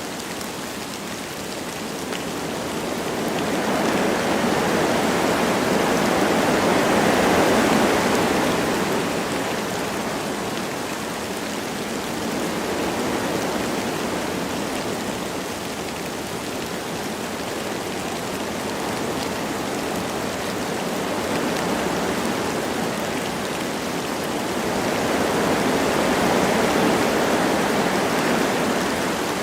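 Wind blowing through forest trees with light rain, a steady rushing that swells into a long gust a few seconds in, eases off, and builds again near the end.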